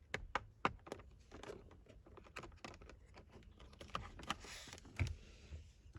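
Light plastic clicks and taps from hands and a tool working on a steering wheel's trim, in an irregular run, with a cluster of sharper clicks in the first second and a few more around four to five seconds in.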